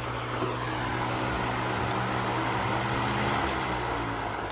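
Electric fan running with a steady motor hum and rush of air, starting to wind down near the end after being switched off.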